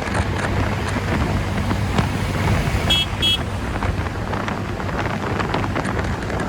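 Wind rushing over the microphone while a scooter is ridden at speed. About three seconds in, a horn gives two short beeps.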